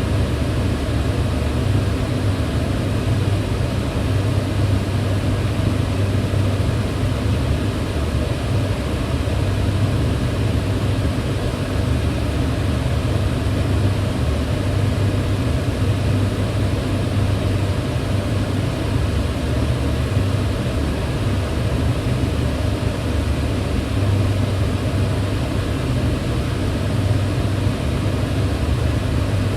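Kitchen range hood fan running steadily, a constant whooshing rush of air with a low hum.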